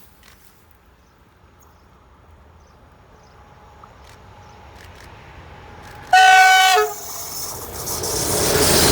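A train approaching along the track, its rumble slowly rising, sounds one short, loud horn blast about six seconds in; the noise of the train then builds quickly as it nears and passes, loudest near the end.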